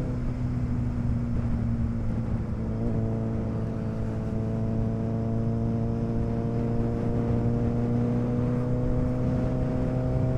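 Motorcycle engine running under way with wind and road noise. The engine note breaks briefly about three seconds in, then rises slowly and steadily as the bike picks up speed.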